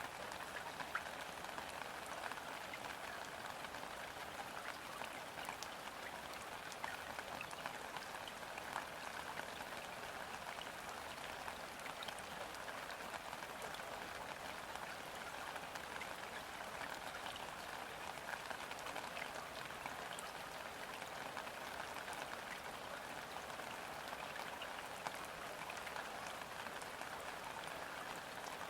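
Gentle, steady rain falling on a river, a dense patter of countless small drops on the water's surface.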